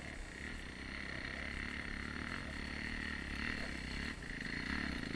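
A steady, high chirring chorus of calling wild animals over the low running of an idling dirt-bike engine, which grows a little louder near the end.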